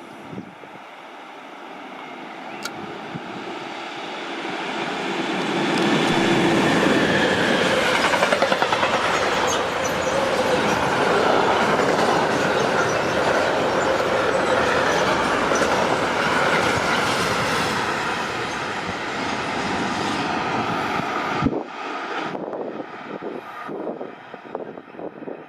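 Train passing through a railway station. The sound builds over the first few seconds and stays loud for about fifteen seconds with wheel clatter, then drops off suddenly near the end as the train goes by.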